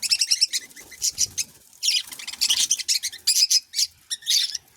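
Budgerigars chattering: rapid runs of short, high chirps and warbles, in bursts with brief pauses.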